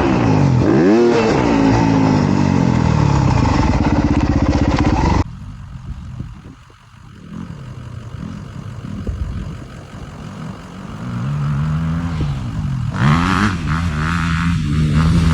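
Dirt bike engine, a four-stroke single-cylinder Honda CRF250R, revving up and down, cut off abruptly about five seconds in. A quieter stretch with the engine faint follows, then the bike revs up loudly again near the end.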